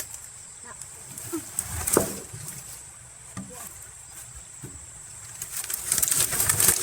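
Wood knocking and scraping as sticks lever a heavy log along: scattered knocks, a sharp one about two seconds in, and a quick run of scraping clicks near the end.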